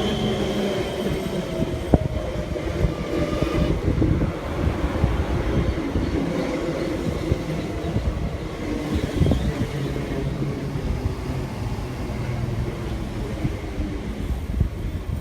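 A train running through the station: a whine that falls in pitch over the first few seconds, followed by a steady rumble of wheels on the track with irregular knocks.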